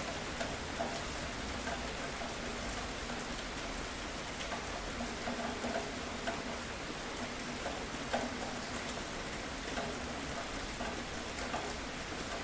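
Steady rain falling on a surface, an even hiss with scattered individual drops tapping.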